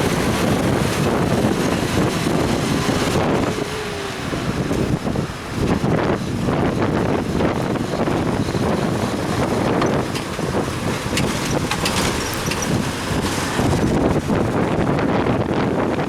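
Wind buffeting the microphone of a head-mounted action camera while cycling, over the hiss and rumble of road traffic in the rain.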